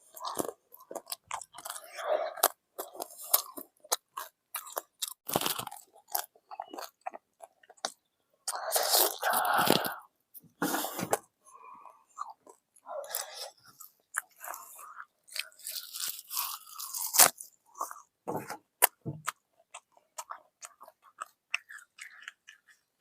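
A person biting into and chewing fried chicken: irregular crunches, smacks and clicks of mouth noise, with longer, louder crunching spells about nine seconds in and again around sixteen seconds.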